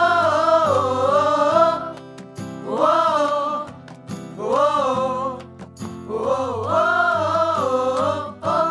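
Children's pop song with wordless sung 'oh, oh' phrases rising and falling over a steady instrumental backing.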